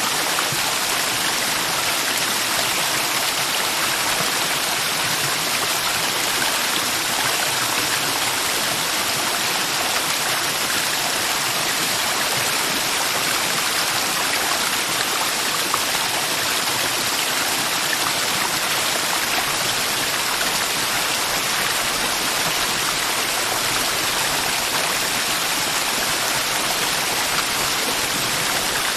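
Mountain river water flowing steadily: an even rush of water with no breaks or changes.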